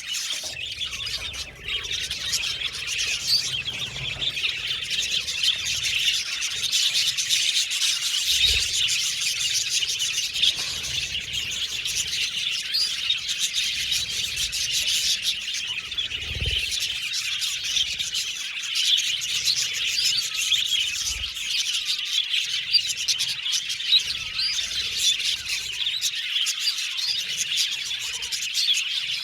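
A flock of budgerigars chirping and chattering without pause, many short high calls overlapping one another.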